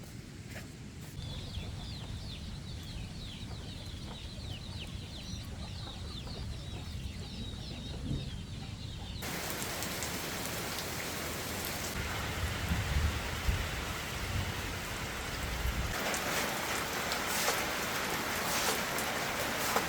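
Chicks peeping in a rapid high chatter over a low rumble. About halfway through, heavy rain starts abruptly as a loud steady hiss and grows stronger near the end.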